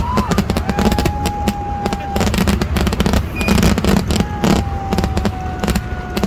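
A rapid, continuous barrage of firecracker bangs from a festival fireworks display, crackling without pause over a deep rumble. A steady high whistling tone is held for about a second and a half, twice: about a second in and again from the middle to near the end.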